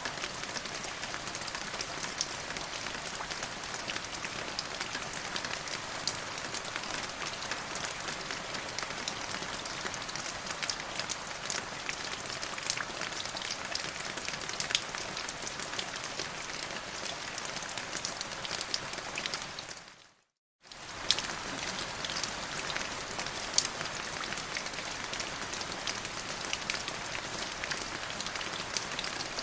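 Steady rain falling, with many separate drop hits clicking through the hiss. About two-thirds of the way through it fades out to silence for about half a second, then comes straight back.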